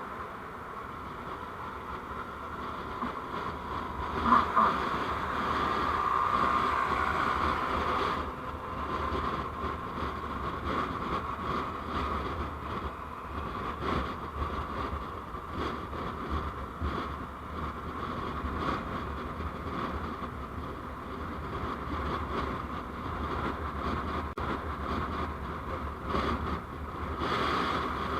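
Continuous road-driving noise from a moving vehicle picked up by an onboard recording camera: steady running and road noise with a low rumble, a brief sharp knock about four seconds in and a louder stretch for a few seconds after it.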